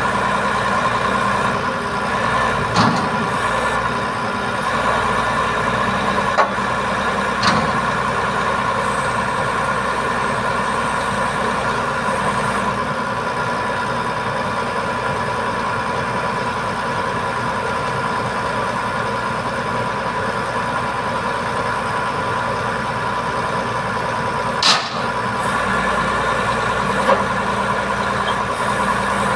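Boom truck's diesel engine running steadily, with a few short knocks and clanks, the loudest near the end.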